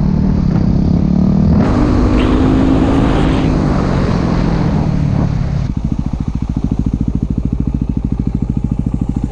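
Yamaha WR dual-sport motorcycle's single-cylinder engine running while riding, its pitch rising a little in the first few seconds. From about six seconds in it settles to a steady, even low chugging.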